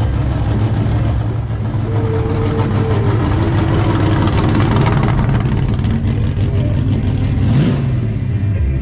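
Car engine rumbling as a car drives past, building in the middle and falling in pitch near the end as it goes by.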